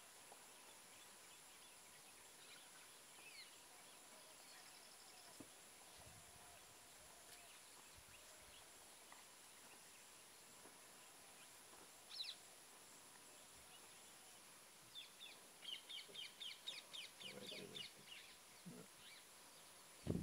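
Quiet outdoor background with faint wild bird calls: a single short call past the middle, then a quick run of repeated high chirps with a lower call among them near the end.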